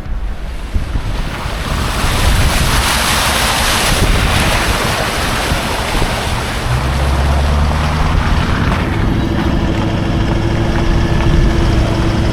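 Heavy wind rushing over the microphone, loudest in the first few seconds. About seven seconds in, a low, steady vehicle engine hum joins it.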